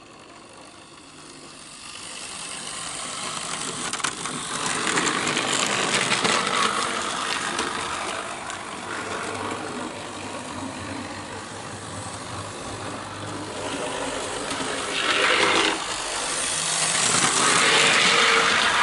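Tri-ang OO-gauge model of a BR Class 31 diesel running along its track: a steady whir of the electric motor and clatter of the wheels on the rails, growing louder over the first few seconds as it approaches, with louder spells near the end.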